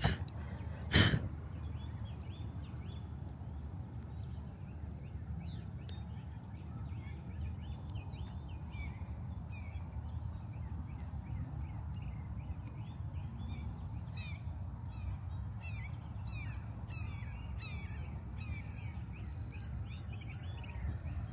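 A chorus of birds chirping, many short quick calls overlapping, busiest in the second half, over a steady low rumble. A sharp click sounds about a second in.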